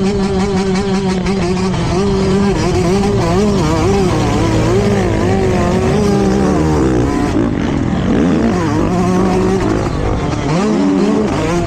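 Motocross bike engines racing, their pitch rising and falling constantly with the throttle as the riders work the track; more than one engine is heard at once, with pitches crossing about two-thirds of the way through and near the end.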